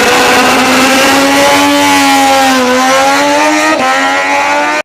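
Racing motorcycle engine held at high revs, its pitch wavering slightly, then cutting off suddenly near the end.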